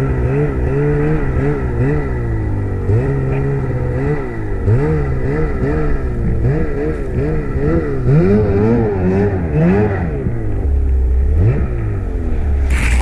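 Snowmobile engine revved up and down in quick, repeated throttle surges, the pitch climbing and dropping many times. Near the end it settles to a lower, steadier note with one more brief rev.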